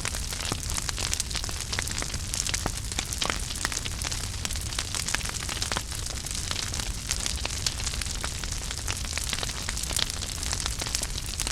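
Wood fire burning in a fireplace, crackling steadily with many small sharp pops over a soft low rumble of the flames.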